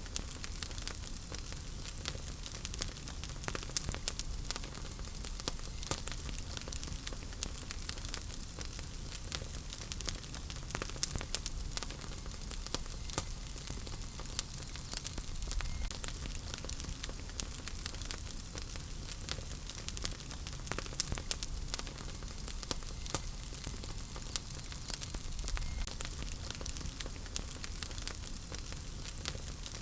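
Wood fire in a fireplace crackling: many small irregular pops and snaps over a low steady rumble of flames.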